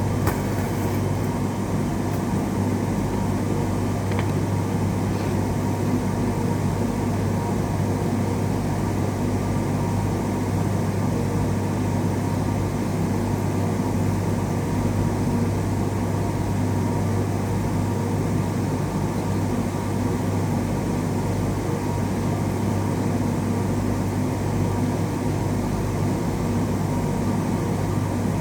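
Steady blowing noise with a strong low hum, unchanging throughout, like a fan or air blower running close by.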